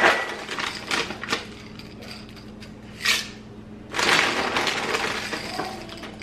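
Chocolate chips poured and scooped into a mixing bowl of batter, a dry rattling clatter in several bursts, the longest about four seconds in, with a few sharp clicks between.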